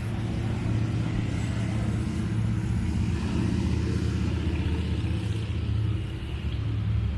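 A car engine running steadily close by: a low, even rumble.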